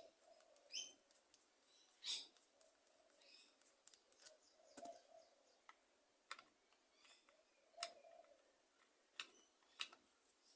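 Sparse light clicks and taps, about eight of them, from small tools and parts during hand work on a Walbro carburettor, with birds chirping and a dove cooing faintly in the background.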